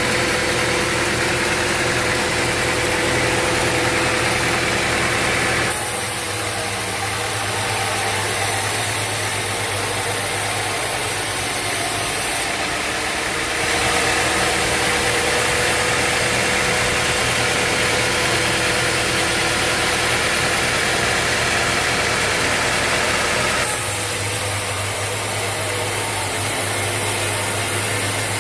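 Sawmill machinery running steadily, a motor hum under a dense hiss, changing abruptly in tone three times.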